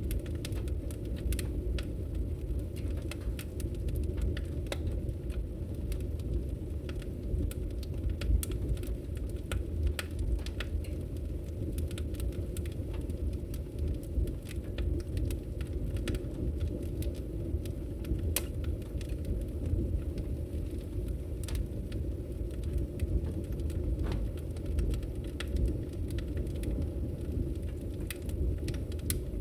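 Wood logs burning in a fireplace: a steady low rumble of the fire with frequent sharp crackles and pops at irregular moments.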